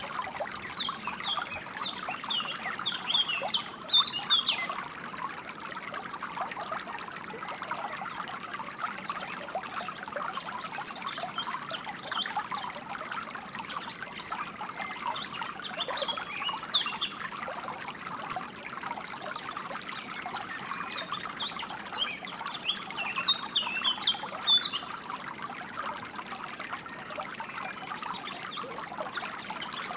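Water trickling and running steadily, with bursts of high, quick songbird chirps that come and go several times, loudest a few seconds in and again a little past twenty seconds.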